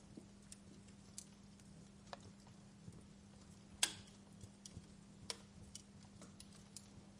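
Wood fire crackling: scattered, irregular small pops and snaps, with one sharp pop about four seconds in and another a second and a half later, over a faint steady hum.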